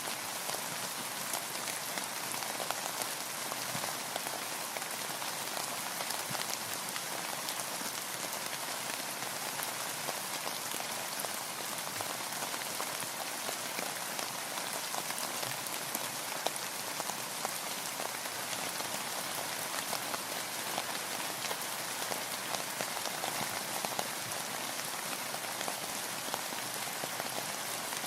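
Steady rain, a dense patter of drops striking a surface, with no pauses or changes.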